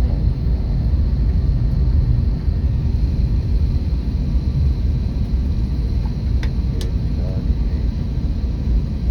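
Airbus A321neo jet engines running with a steady low rumble and a faint, constant high whine. Two short clicks come about six and a half seconds in.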